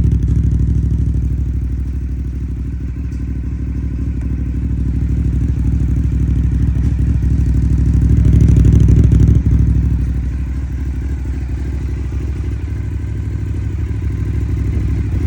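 Aprilia Dorsoduro 750's V-twin engine idling steadily. It grows louder about eight seconds in, then drops back suddenly about a second later.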